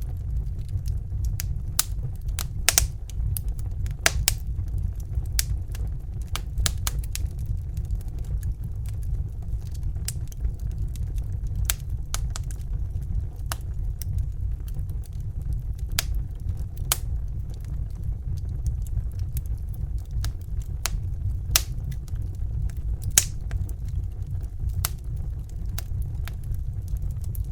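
Crackling fire: irregular sharp pops and snaps, a few louder than the rest, over a steady low rumble.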